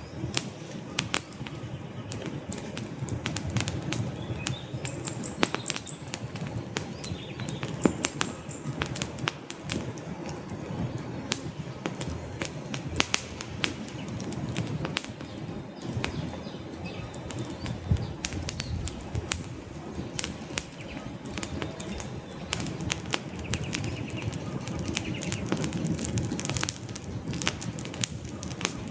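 Wood fire burning in a fireplace: logs crackling and popping in an irregular stream over a low, fluttering rumble of flames, with a few louder pops.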